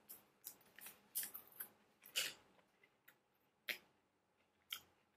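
A person chewing a bite of caramel KitKat, the crisp wafer crunching in faint, irregular crackles that come thick at first and grow sparser.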